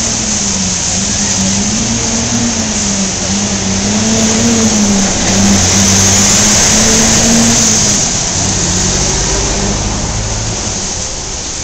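Wet city street in heavy rain: a steady hiss of rain and tyres on wet pavement, with a vehicle engine's low drone wavering in pitch for the first eight seconds. The hiss swells loudest a little past the middle.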